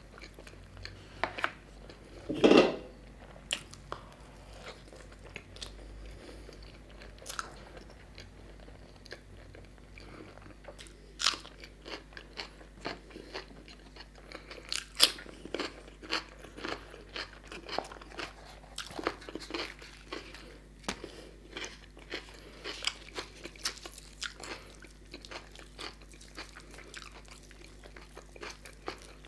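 Close-miked eating of puri with chicken curry: chewing, biting and crunching with many short wet clicks, the loudest crunch about two and a half seconds in.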